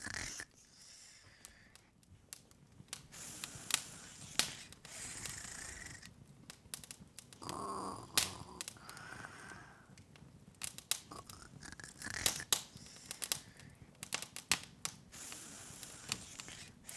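Open wood fire crackling: irregular sharp pops and snaps over a soft hiss.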